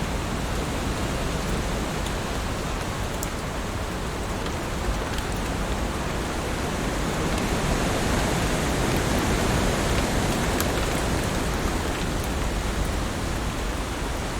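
Heavy rain falling on leaves: a steady dense hiss with faint scattered drop ticks, swelling slightly a little past the middle.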